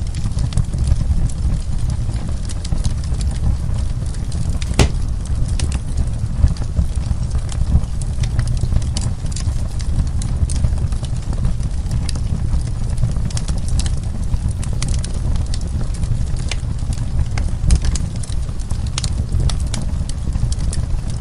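Wood fire burning in a fireplace: a steady low rumble with frequent sharp crackles and pops of burning wood, one louder pop about five seconds in.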